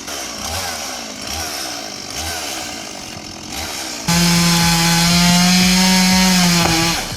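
Chainsaw engine running unevenly, then opened to full throttle about four seconds in, holding a steady high note for about three seconds before dropping off near the end.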